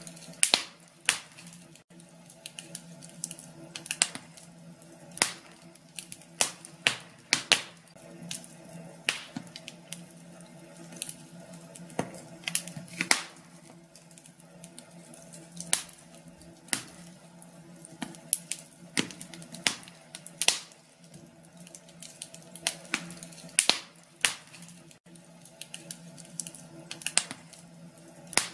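Wood fire in a fireplace crackling, with irregular sharp pops and snaps several times a second over a faint steady hum.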